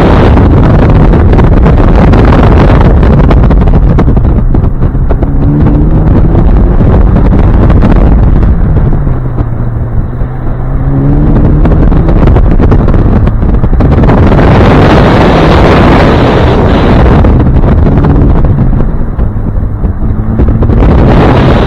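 Heavy wind buffeting on the microphone, very loud, over a Hyundai Elantra N's turbocharged four-cylinder engine that rises and falls in pitch as the car accelerates and slows through an autocross course. The engine drops low about ten seconds in, then climbs again.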